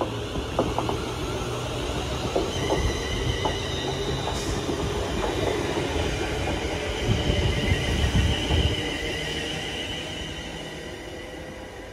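A train passing on the line, its wheels clicking over rail joints, with a high steady ringing from the wheels and rails. The rumble is loudest about seven to nine seconds in, then fades away.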